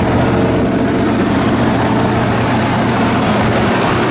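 1972 Chevy Monte Carlo's V8 engine idling steadily, just revived after sitting unused for months.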